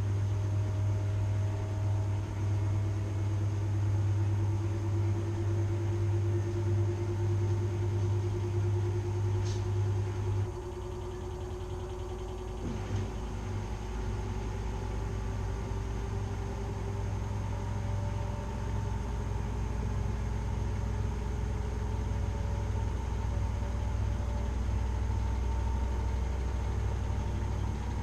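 Washing machine running: a steady low motor hum with a faint whine that slowly rises in pitch. About ten seconds in the hum drops abruptly to a lower, quieter drone, with a couple of short clicks around then.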